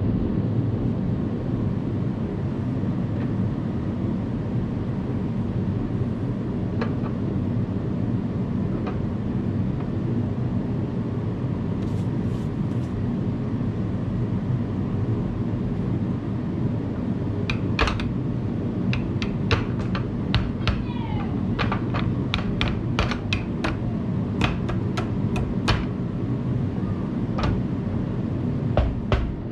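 Metal tools clinking and tapping on metal, in quick irregular strikes through the second half, over a steady low mechanical hum.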